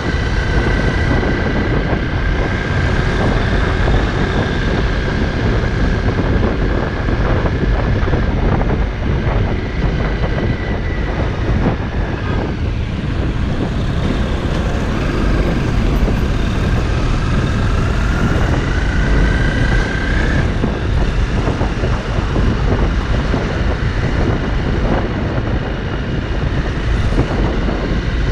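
Honda CRF250L's single-cylinder four-stroke engine running under way at town speed, over a heavy low rush. A whine climbs in pitch a little past the middle as the bike picks up speed, then cuts off.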